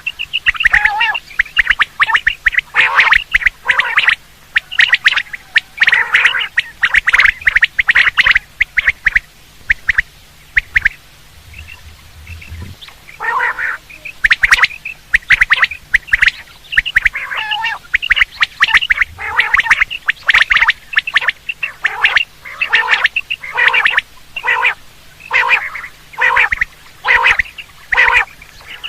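Quail (batair) calling over and over in quick series of short, sharp notes, with a pause of a few seconds near the middle. It is the call that hunters play to lure quail.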